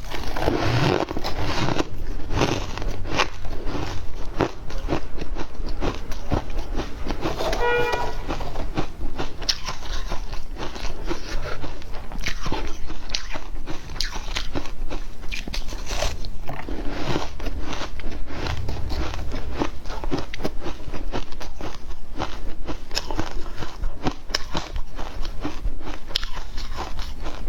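Shaved ice being bitten and chewed: a continuous run of crisp, irregular crunches.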